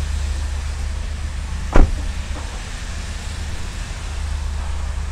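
A car door shutting with a single loud thump about two seconds in, over a steady low rumble.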